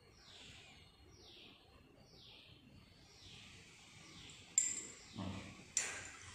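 A bird repeating a faint short falling call about once a second. Two sharp clicks come near the end.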